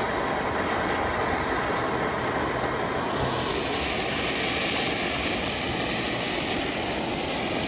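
Consumer fountain firework burning with a steady spray of sparks, an even, unbroken hiss.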